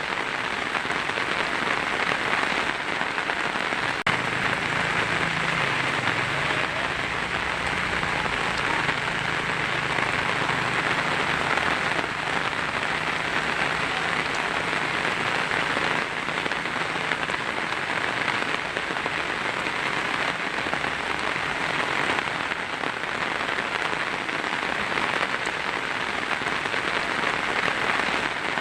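Heavy rain drumming steadily on a tin roof. A faint low rumble sits beneath it from about four seconds in.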